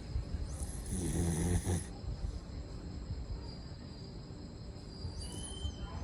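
Dog snoring: one long rasping snore about a second in, and the next one starting near the end.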